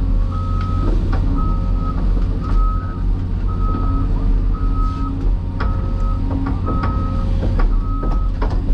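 Backup alarm beeping about once a second over the steady low rumble of heavy diesel machinery, with scattered sharp knocks.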